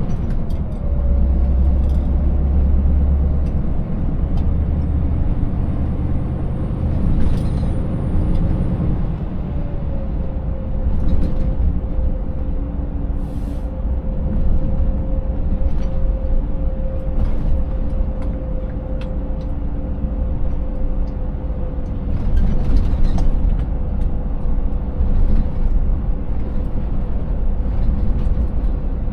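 Scania 590S truck's 16-litre V8 diesel running steadily under way, heard with a held whine over the engine. Scattered clicks and knocks come through, and there is a short hiss about halfway.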